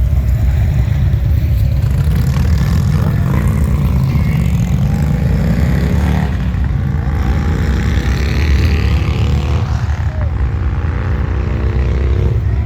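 Motorcycle engine running, a steady low rumble whose pitch wavers a few seconds in.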